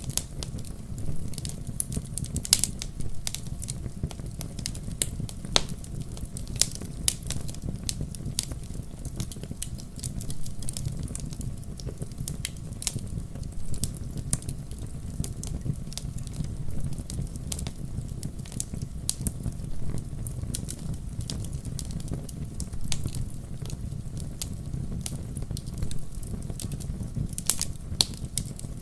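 Wood campfire burning, with a steady low rumble of flames and frequent irregular sharp crackles and pops.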